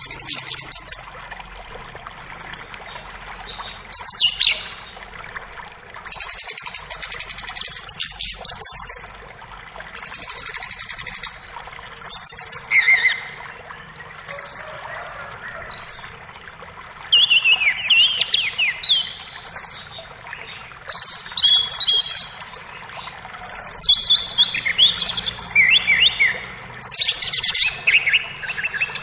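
Songbirds singing in forest: loud, high, repeated phrases every second or two, mixing short chirps, quick descending trills and a couple of fast buzzy rattles, over a faint steady trickle of creek water.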